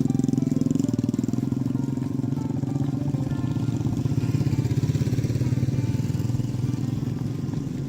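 A small engine running steadily with a fast, even pulse, slowly getting quieter.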